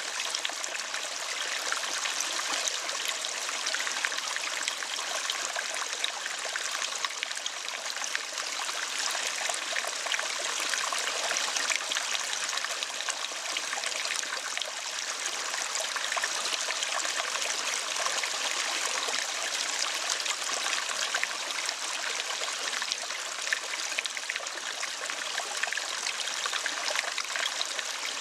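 Steady running water, a small stream trickling and babbling, with no bird calls over it: the water interlude that spaces out the lovebird chatter calls in a bird-training recording.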